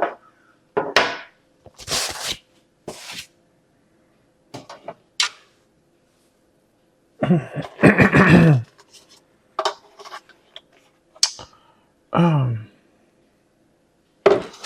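Bursts of rustling and light clatter as plastic packaging and bird feeder kit parts are handled, with a couple of short hummed or mumbled vocal sounds in between.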